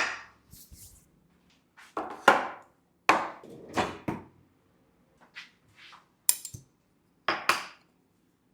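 Knife chopping apples on a cutting board: irregular sharp knocks, some in quick pairs.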